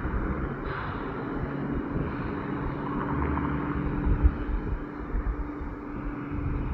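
Tractor-trailer truck running past on the road: a steady engine drone with a held hum and low rumble, and a few short low thumps.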